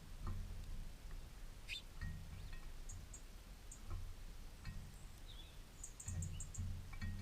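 Small garden birds calling: a single falling whistle about two seconds in, scattered short high chirps, and a quick run of chirps near the end. Under them, a low rumble comes and goes in patches.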